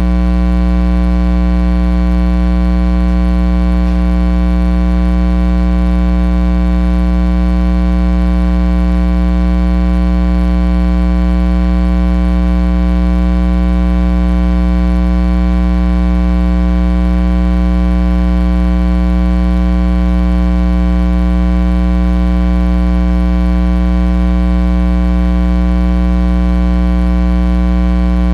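Loud, steady electrical mains hum with a buzzy edge, unchanging throughout.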